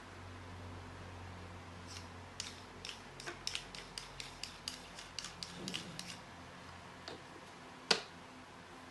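A run of light, irregular clicks and taps from small hard objects being handled, about a dozen over a few seconds, then one louder sharp click near the end, over a faint low hum.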